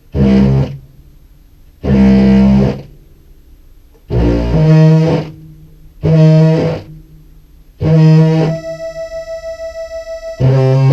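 Contrabass clarinet played through fuzz pedals and a Meris Enzo synth pedal in parallel: six short, distorted, buzzy low notes about two seconds apart. After the fifth note a steady synth tone hangs on, pulsing quickly in level, until the last note cuts in. The Enzo is not tracking the clarinet cleanly, which the player blames on the Enzo's filter.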